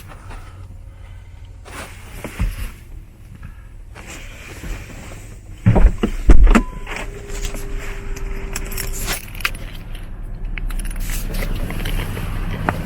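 Light clinking and rattling handling noises, with two heavy thumps about six seconds in. A steady low hum builds up toward the end.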